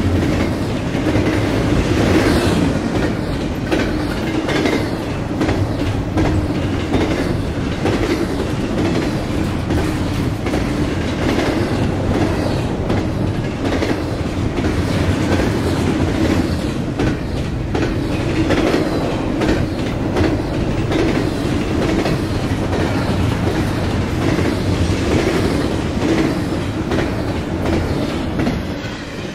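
A train's railroad cars rolling past, the steel wheels clicking over rail joints in a steady clickety-clack over a continuous rumble. The sound eases off near the end.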